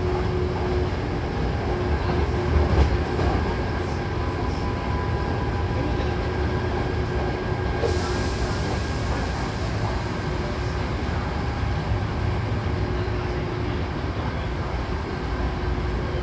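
Hankyu commuter train running between stations, heard from inside the passenger car: a steady low rumble with faint steady tones. A sudden hiss comes in about halfway and fades over a few seconds.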